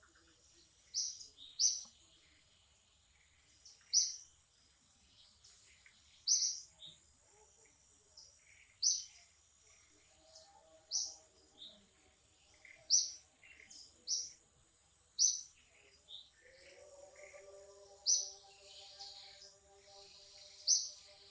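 Bird chirping: short high chirps repeated every second or two, over a faint steady high-pitched hum. A fainter steady lower hum joins about three-quarters of the way through.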